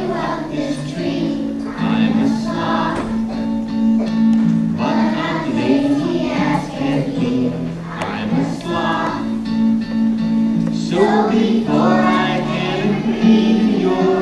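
A group of voices singing a song in chorus over steady instrumental backing.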